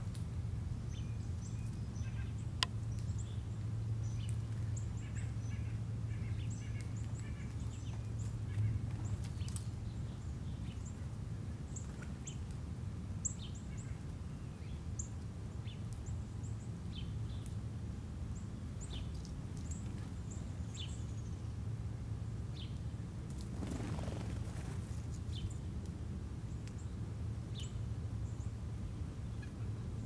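Small wild birds giving short, high chirps scattered throughout, over a steady low background hum, with one brief louder thump about nine seconds in.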